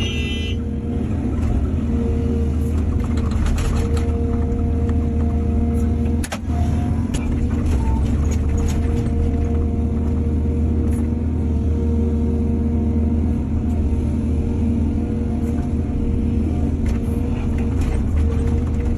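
Heavy diesel engine of an excavator running steadily, with a brief dip about six seconds in.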